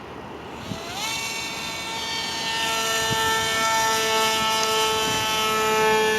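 Foam-board RC plane's motor and propeller spinning up about a second in, then a steady high whine that drifts slowly lower in pitch.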